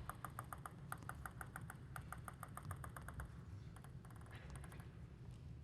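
Faint, rapid, even clicking, about five or six clicks a second, that stops about three seconds in. A short, denser flurry of clicks follows about a second later, over a steady low rumble.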